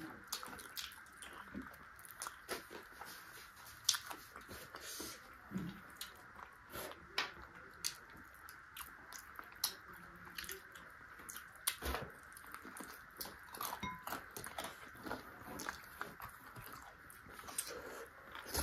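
A person chewing and biting chicken feet close to the microphone, with irregular crunches and wet clicks about once or twice a second.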